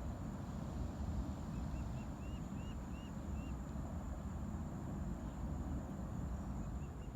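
Gusty wind buffeting the microphone as a low, fluctuating rumble. A bird chirps a quick run of about seven short notes, then a few more near the end.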